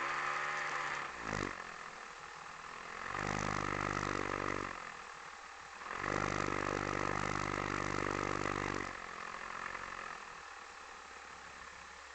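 AGM 30 two-stroke petrol engine of a quarter-scale RC Super Cub, heard from on board the model. Its throttle is opened up for two spells of a couple of seconds each, with quieter running between them, then brought back to low power for the last few seconds.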